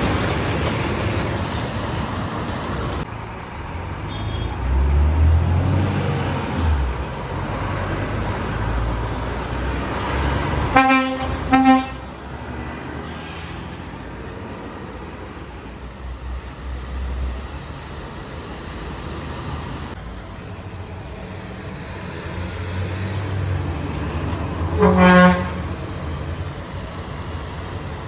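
Trucks passing on the road, their engines swelling and fading. A truck horn gives two short toots about eleven seconds in, and a lower-pitched horn blasts once, loudest of all, near the end.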